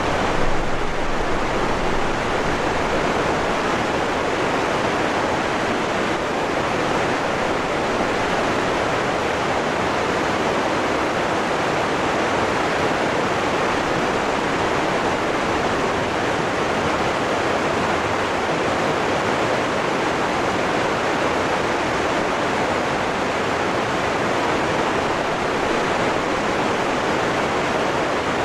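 Waterfall rushing: a steady, loud roar of falling water with no change throughout.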